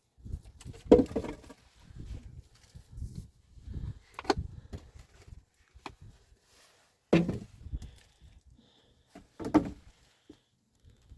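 Irregular knocking and thumping of objects being handled, with four sharper strikes spread a few seconds apart.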